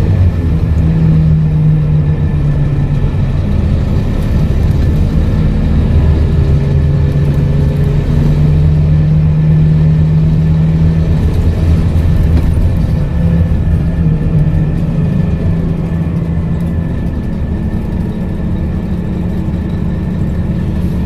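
Scania K230UB bus's five-cylinder diesel engine running under way, its pitch stepping up and down several times as the bus speeds up and the ZF automatic gearbox changes gear, then dropping lower near the end.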